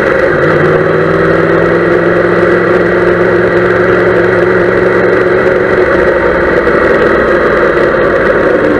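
Yamaha YZF-R1M's 998 cc crossplane inline-four engine, picked up close by the bike-mounted camera, running steadily while the motorcycle rolls slowly. Its pitch sags a little in the second half.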